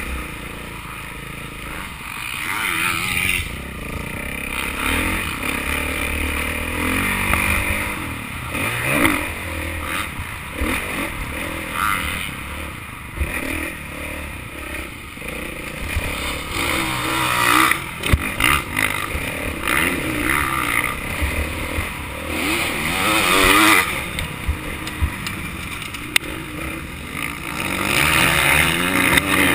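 Motocross bike engine revving up and falling back again and again as it is ridden, with clattering and several sharp knocks.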